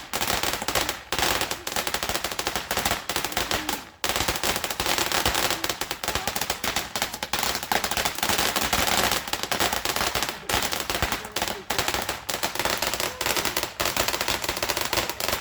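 Fireworks going off in a rapid, continuous run of crackling bangs, with a brief lull about four seconds in.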